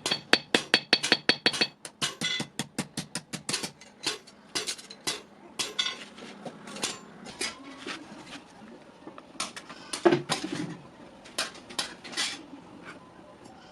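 Light hammer taps on steel, quick and regular at about five a second for the first couple of seconds, then slower and uneven, with one heavier strike about ten seconds in.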